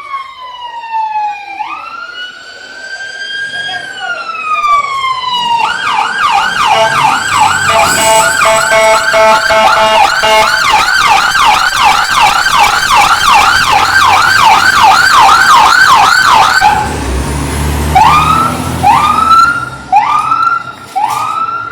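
Loud emergency vehicle siren close by. It starts as a slow wail that falls, rises and falls again, switches about six seconds in to a fast yelp of roughly three to four cycles a second, and after a brief low rumble ends in short rising whoops about once a second.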